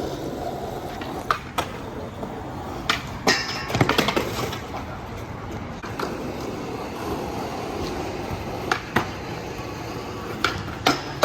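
Skateboard wheels rolling on wet pavement, with sharp clacks of the board striking the ground several times and a loud cluster of them about four seconds in.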